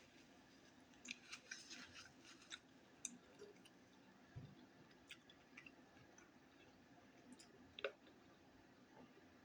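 Near silence with a scatter of faint, brief clicks and small ticks, a cluster of them in the first few seconds and the loudest one near the end.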